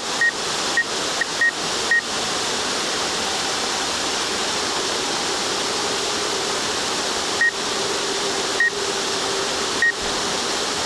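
Steady rushing of a waterfall, with short high electronic beeps from the drone's controls: five quick beeps in the first two seconds, then three more spaced about a second apart near the end.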